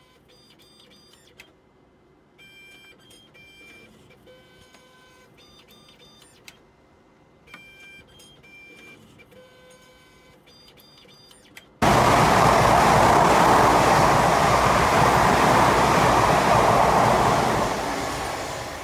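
A short, soft tune of electronic beeping notes, then about twelve seconds in a train suddenly rushes past at speed with a loud, steady rushing noise of wind and wheels that begins to fade near the end.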